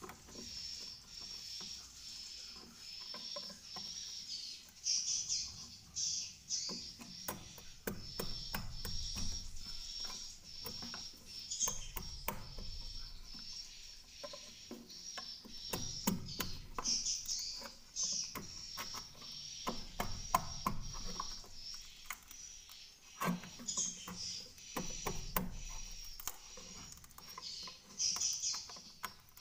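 Swiftlets chirping: a steady run of high, evenly repeated chirps, louder in places, with scattered sharp clicks and a few low knocks among them.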